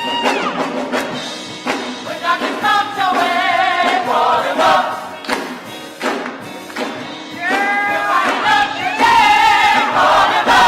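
Gospel choir singing with band accompaniment and a steady percussion beat, voices holding long notes with vibrato.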